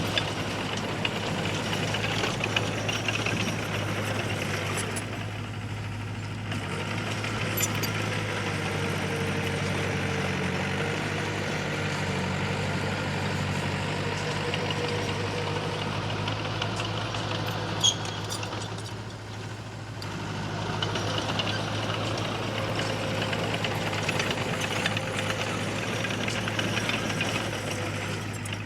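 Diesel engine of heavy earthmoving machinery running steadily, easing off briefly twice, with a couple of short sharp clanks, one louder than the rest about two-thirds of the way through.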